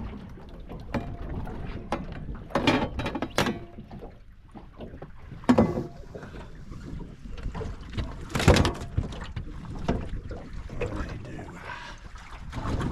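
Wind buffeting the microphone and water noise aboard a small fishing boat drifting offshore. There is a cluster of loud knocks or slaps about three seconds in, and single ones near the middle and about two-thirds through.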